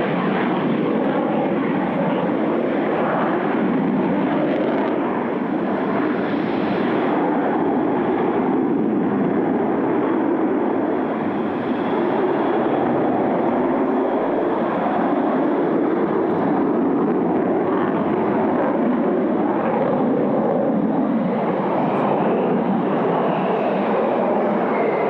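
Sukhoi Su-30MK fighter flying its display, the jet engine noise a steady loud rush, with a faint whine that rises and then falls near the end.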